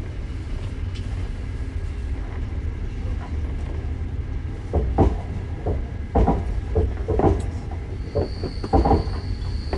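Passenger train running, heard from inside the carriage: a steady low rumble, and from about halfway a run of sharp clickety-clack knocks in small groups as the wheels pass over rail joints. A faint high whine comes in near the end.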